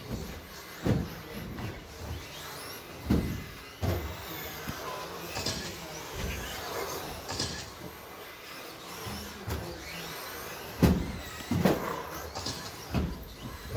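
1/10-scale electric RC stadium trucks with 13.5T brushless motors racing: motors whining up and down over the noise of the track, with several sharp thumps and clatters of trucks landing or hitting each other, the loudest about eleven seconds in.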